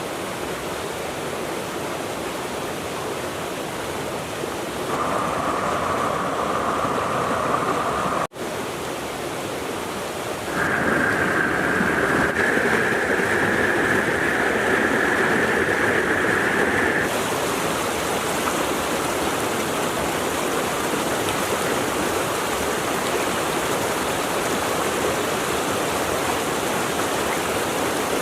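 Mountain river water rushing over rocks, a steady hiss. It changes in loudness and pitch several times, with a brief dropout about eight seconds in.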